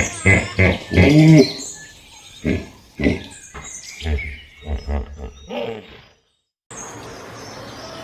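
A series of loud animal calls, pitched and bending, several short ones, with the longest and loudest about a second in. The calls stop about six seconds in, and a steady noise follows.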